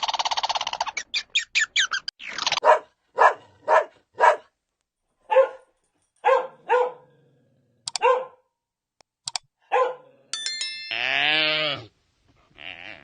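A dog barking, a dozen or so single short barks spaced half a second to a second apart. Near the end, a different drawn-out pitched animal call lasting about a second.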